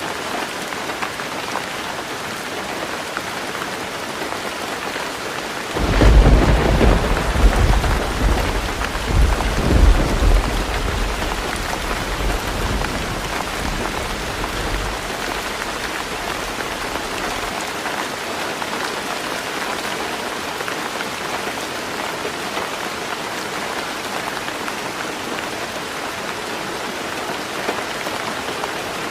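Heavy rain falling steadily on a tin roof. About six seconds in a loud clap of thunder breaks suddenly and rumbles, surges again a few seconds later, then dies away over several seconds.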